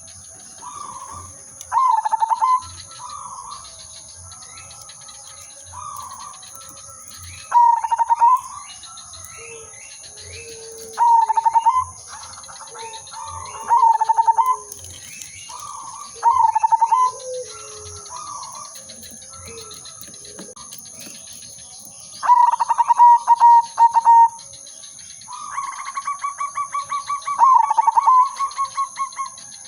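Zebra doves (perkutut) cooing: a loud stuttering song phrase comes about every three seconds, with quieter calls between. Near the end there is a longer run of quick, even notes. A steady high-pitched tone sounds in the background.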